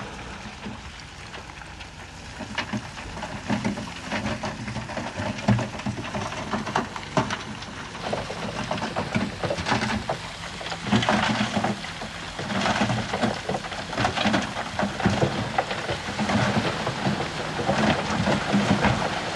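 Bulldozer's diesel engine running, with many irregular sharp clanks and crunches from its tracks and the stone it is pushing.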